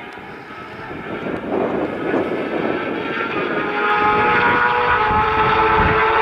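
Racing motorcycle engines at high revs, growing louder over the first few seconds as they approach, then holding a steady high engine note.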